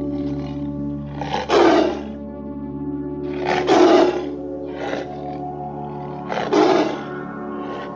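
Tiger roars, three loud ones about two seconds apart with a weaker one between, over steady background music with a held drone.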